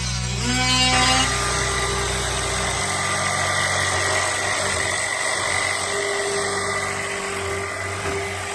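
A steady mechanical hum, like an engine running at idle.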